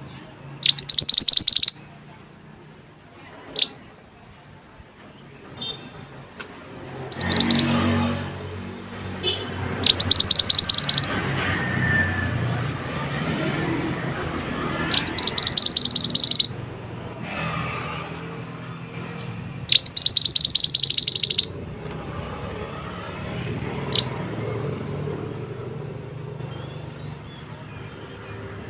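A mantenan songbird singing in loud, rapid high trills, each burst lasting about a second and repeated every few seconds, with a short sharp note between some of them. A steady low hum runs underneath.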